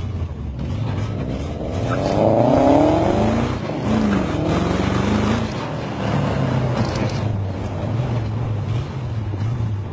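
Chevy 454 big-block V8 engine revving up about two seconds in, loudest near three seconds, then easing back to a steady lower note.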